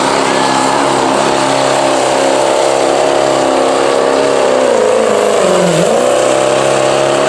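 Modified street diesel pickup engine running hard at high revs under load while pulling the sled. The pitch holds steady, sags briefly about two-thirds of the way through, then climbs back.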